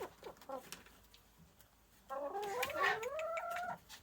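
One drawn-out call from a domestic fowl, most likely a hen, starting about two seconds in and rising in pitch in steps, after a quiet start with a few faint clicks.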